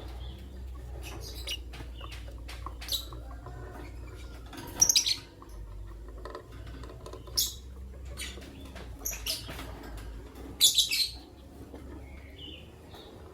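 Lovebirds giving short, shrill chirps in scattered bursts, the loudest about five seconds in and again near eleven seconds, with small clicks between them. A steady low hum runs underneath.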